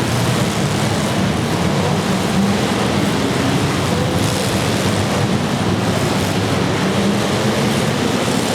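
Engines of several demolition derby cars running together, making a loud, steady din with no distinct crashes.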